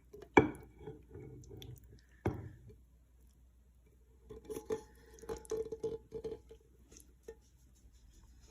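Thick, creamy pot pie filling being transferred from the pot into a baking dish: a sharp knock of cookware about half a second in, another about two seconds later, then a run of wet scraping and clinking as a utensil works the filling out of the pot.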